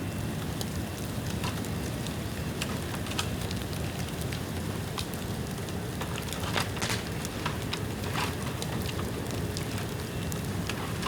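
Bamboo bonfire burning: a steady rush of flames with scattered sharp crackles and pops, a few louder pops a little past the middle. The bamboo is rain-damp.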